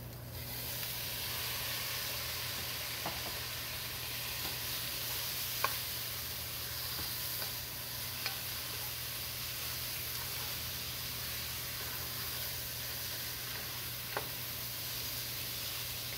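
Chopped tomatoes sizzling as they fry in hot oil with onions and spices in a nonstick pot, stirred with a wooden spoon. The sizzle swells up just after the start, and the spoon knocks lightly on the pot about four times.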